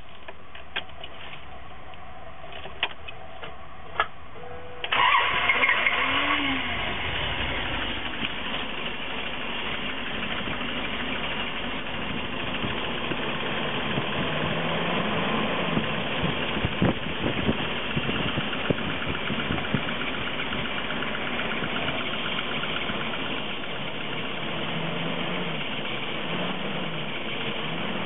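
Winnebago Chieftain motorhome's 7.2-litre Dodge petrol engine starting: a few clicks, then about five seconds in it fires with a sudden loud burst and settles into a steady idle.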